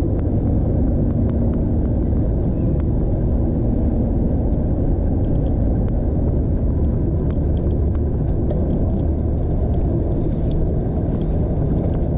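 Steady low rumble of riding a bicycle through city streets: wind and road noise on a chest-mounted GoPro's microphone, with traffic around, and faint ticks scattered through it.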